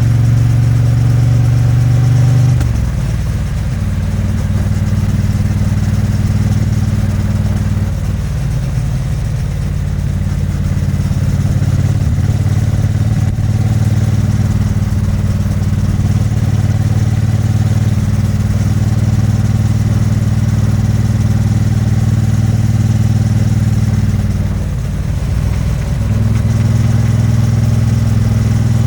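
2022 Triumph Bonneville T100's vertical-twin engine and exhaust, heard while riding. It drops to a slightly quieter note about two seconds in, and pulls louder again near the end.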